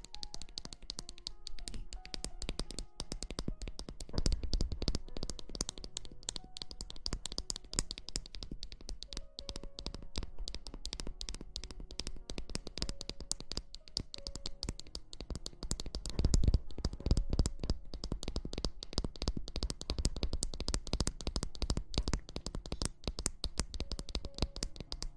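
Dense crackling rustle close on the microphone, as in ASMR rustling or lathered hair being rubbed, getting louder about two thirds of the way in. Soft background music plays underneath.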